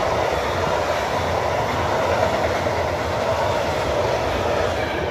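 Intermodal freight train's pocket wagons, loaded with lorry trailers, rolling past close by: a loud, steady rush of steel wheels on the rails.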